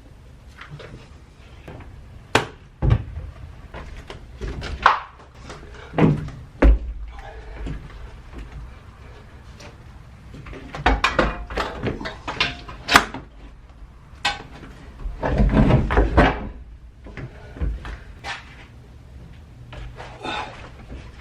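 Irregular knocks, thuds and handling noises against the sheet-metal body inside a Ford Econoline van's cargo area while sound deadening mats are pressed onto the walls. There are a few sharp single knocks, and denser bursts of handling noise about halfway through and again a few seconds later.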